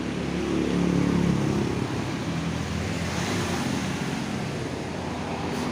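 Honda GL Max motorcycle's single-cylinder four-stroke engine running, rising briefly about a second in and then settling to a steady run after starting on a newly fitted battery.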